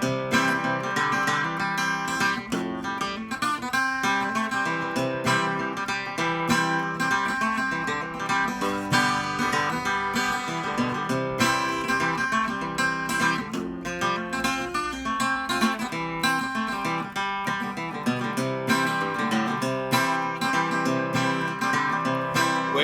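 Solo acoustic guitar plays an instrumental break of a country novelty tune, picking and strumming at a steady, lively pace with no singing.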